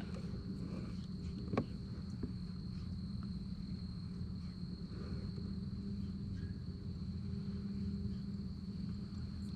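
A steady low electric hum with a thin, high, steady whine above it, and a faint click about one and a half seconds in.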